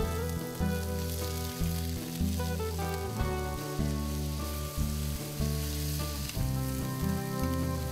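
Pork rib pieces sizzling as they fry in a hot nonstick pan with cooking wine just added, turned over with chopsticks near the end. Soft background music with slowly changing notes plays under it.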